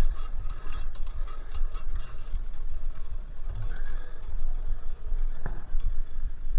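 A bicycle being ridden, with a steady low wind rumble on the microphone and irregular small ticking and rattling from the bike, and one sharper click near the end.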